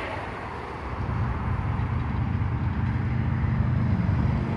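Semi truck driving past, its engine hum and road noise swelling about a second in and loudest near the end.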